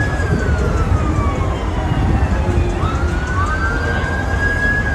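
Emergency-vehicle siren wailing, its pitch sliding slowly down, back up near the middle, and down again at the end, over a steady low rumble of street noise.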